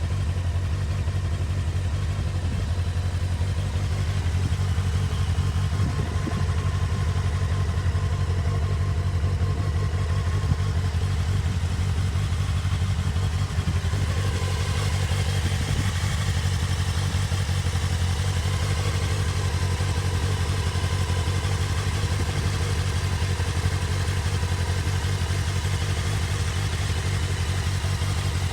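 Honda CBF600S's inline-four engine idling steadily after a cold start, its sound brightening a little about halfway through.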